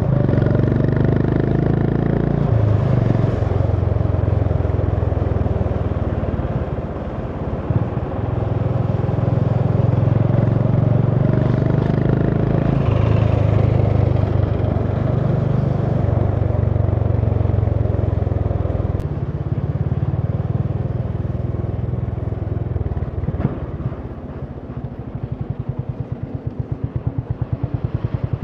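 Honda CB350 H'ness's single-cylinder engine running on the move, its revs rising and falling between gear changes. Near the end it drops to low revs and the separate exhaust beats can be heard.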